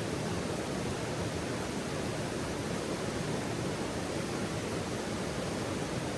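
Steady, even rushing noise with no crackles or pops.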